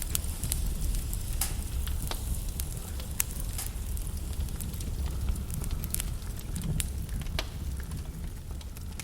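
Logs burning in a fireplace: a steady low rumble from the flames, with sharp crackles and pops at irregular moments, roughly once a second.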